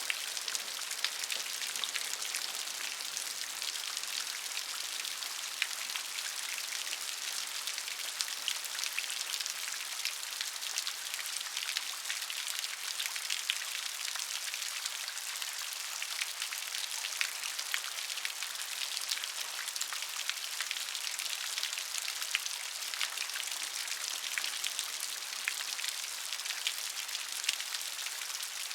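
Steady rain falling on a surface: an even hiss with many fine, close-spaced drop ticks and no thunder.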